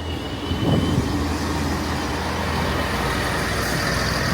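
Passenger train pulling into the station: a steady low engine rumble with wheel and track noise that swells about a second in and then holds.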